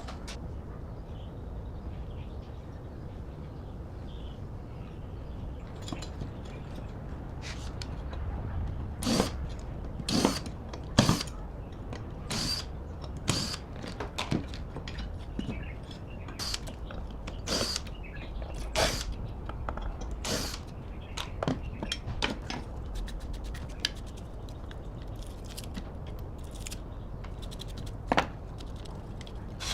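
Irregular clicks and knocks of hand work on a restoration job, over a steady low hum; they come thickest in the middle stretch.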